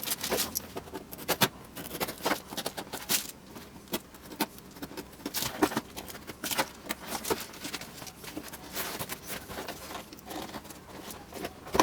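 A parcel being opened by hand: irregular crinkling, scraping and tapping of packaging material, with no steady rhythm.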